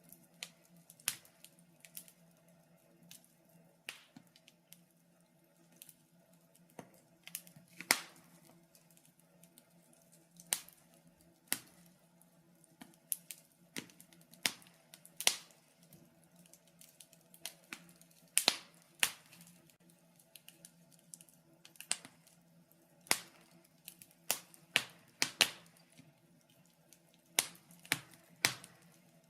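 Wood fire crackling: irregular sharp pops and snaps at uneven intervals, some loud and some faint, over a faint steady low hum.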